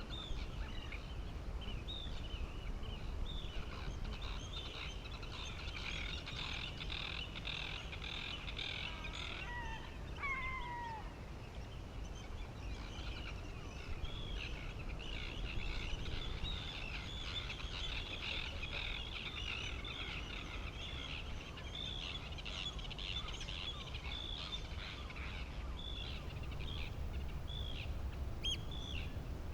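Many birds calling at once in a dense chorus of short, high chirps, with a couple of falling whistles about ten seconds in. A low, steady rumble of wind or water runs underneath.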